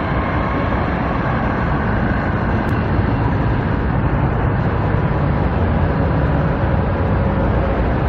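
Steady rumble of road traffic, a continuous even roar with no single vehicle standing out.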